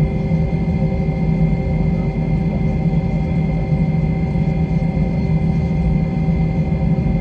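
Airliner jet engines running at steady power: a low rumble under several constant humming tones, with no rise in pitch or level.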